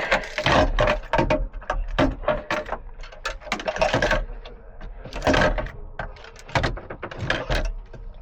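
Irregular handling clatter: a rapid string of clicks and knocks of hard objects being moved and set down.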